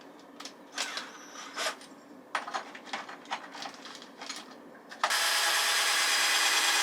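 Scattered light knocks and scrapes, then about five seconds in a power tool starts abruptly and runs loud and steady.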